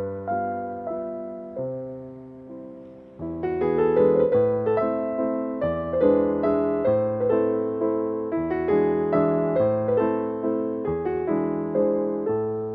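Background piano music, a gentle melody of struck notes that ring and fade, softening about two seconds in and growing fuller again a second later.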